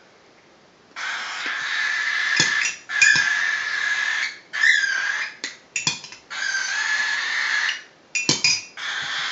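Eight-week-old cockatiel chick giving rough, drawn-out begging cries, several in a row with short gaps, a hungry baby calling to be hand-fed. A few short knocks come between the cries.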